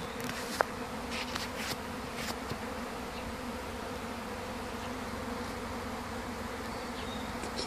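A honeybee swarm leaving the hive: a steady, dense buzzing of thousands of bees in flight, with one short click about half a second in.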